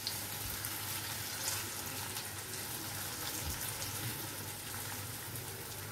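Eggs frying in oil in a nonstick pan with a soft, steady sizzle, with a few faint touches of a silicone spatula folding them.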